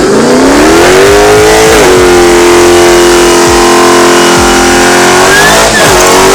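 A car engine at full throttle, very loud, its pitch climbing through the revs and dropping briefly at a gear change about two seconds in and again near the end, as it accelerates hard down a drag strip.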